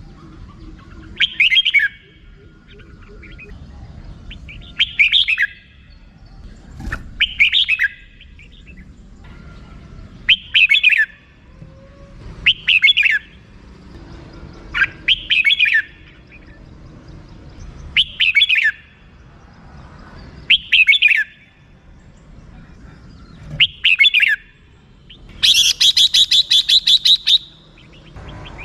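Red-whiskered bulbul giving short chirping phrases about every two to three seconds. Near the end it breaks into a longer, rapid run of repeated notes, the chattering 'rik-rik-rik' call.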